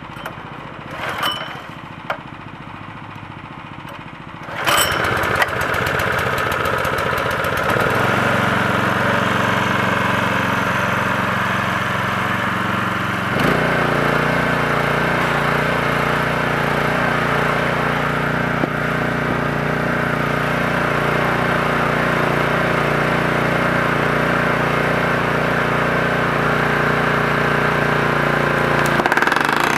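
The log splitter's small gasoline engine is started cold on the choke with its recoil starter: a few light clicks, then about four and a half seconds in it catches and runs. About thirteen seconds in its note changes, and it runs steadily from then on.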